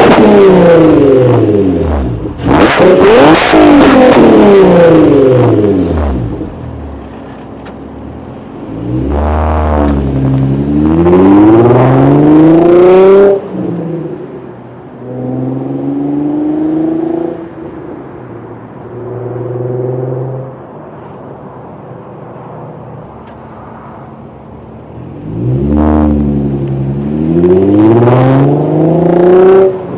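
Infiniti G35's 3.5-litre VQ35DE V6 exhaust revved repeatedly while parked: high revs falling back to idle, then a climbing rev that drops off suddenly, two short throttle blips, a stretch of idle, and one more long climbing rev near the end.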